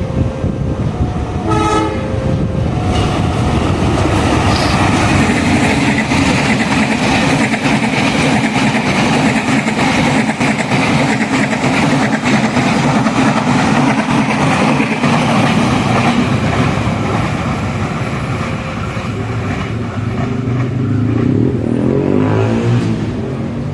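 A train passing a level crossing at speed: the steady rumble and wheel clatter of the locomotive and carriages build about three seconds in, hold, and ease off near the end. A level-crossing warning tone sounds in the first seconds, and there is a short horn note about two seconds in.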